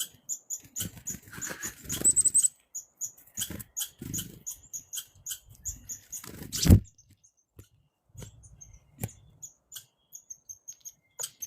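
Chickadees and red squirrels at a hand feeding: many short, high-pitched chirps, with a quick run of them about two seconds in. Under them are rustling and handling bumps, and one loud thump a little past the middle.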